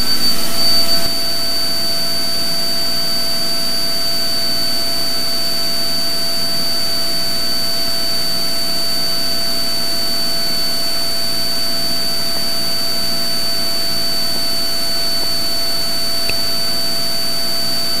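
Cessna 182 Skylane's piston engine and propeller droning steadily during the climb after takeoff, heard inside the cockpit, with a thin steady high whine over it.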